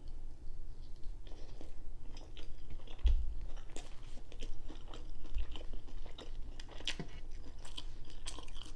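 Close-miked chewing of a bite of crispy breaded cod fish sandwich, with small crunches and wet mouth clicks throughout. There are two soft low thumps, about three seconds in and again about five seconds in.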